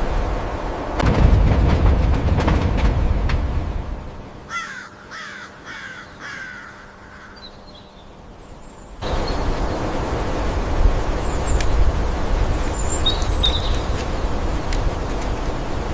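A bird calling about five times in quick succession, each call falling in pitch, between stretches of steady outdoor noise. Faint high chirps come later in the noise.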